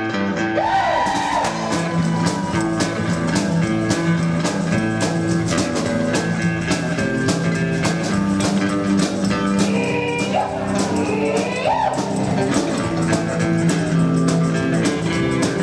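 Live rockabilly band playing: guitar, double bass and drums with a steady beat, the guitar sliding up into bent notes a couple of times.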